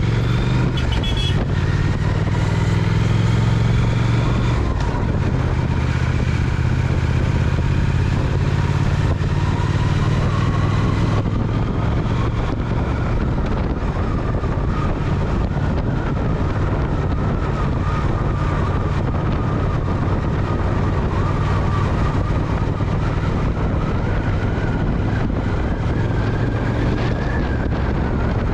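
Triumph Speed Twin's parallel-twin engine running under way, its note shifting a little with the throttle, over wind and road noise on the microphone.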